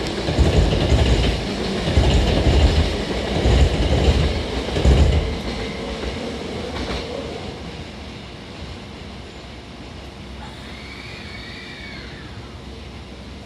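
Hankyu 1000 series electric train pulling out and running past: a loud rumble of wheels on rail for the first five seconds or so, then fading steadily as it draws away.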